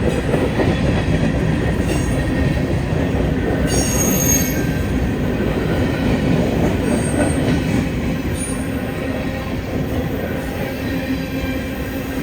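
Freight train rolling past, a steady rumble of wheels on rail, with brief high-pitched wheel squeals about four seconds in and again past the middle.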